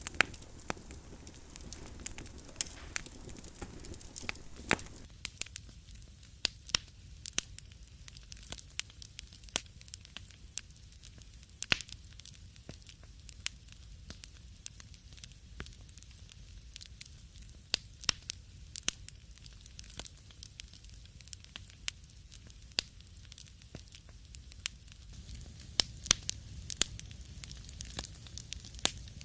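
Wood fire burning in a fireplace, crackling and popping irregularly over a low rumble of flame, with the pops busier near the start and near the end.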